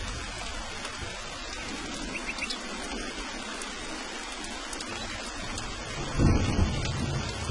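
Steady rain hissing, with a sudden low rumble of thunder rising about six seconds in.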